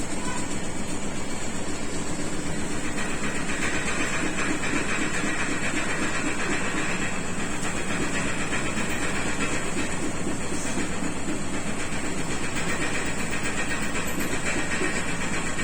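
Washing machine running, a steady mechanical whir with a higher-pitched band that comes in about three seconds in, fades around ten seconds and returns near the end.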